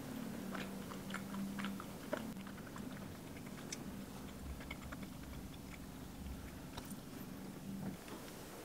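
Close-up chewing of a soft white-bread sandwich: small wet clicks and mouth sounds come in clusters through the first two seconds and again around four to five seconds in, over a faint steady low hum.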